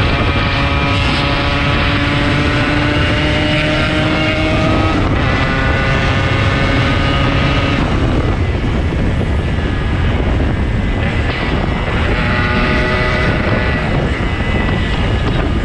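Yamaha RX-King 135's two-stroke single-cylinder engine running under way, its note climbing slowly, then breaking and changing pitch about five and eight seconds in, over a heavy rumble of wind on the microphone.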